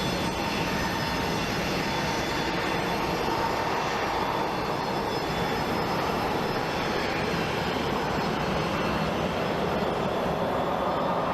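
Jet airliner engine noise: a steady, continuous rush with a faint high whine.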